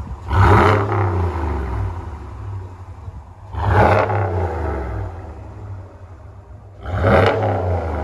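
Dodge Ram 1500 Rebel pickup with a Corsa performance exhaust, revved three times from idle about three and a half seconds apart. Each blip rises quickly and falls back to a low idle rumble.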